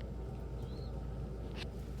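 Low steady room hum, with a faint short high squeak under a second in and a single soft click about a second and a half in.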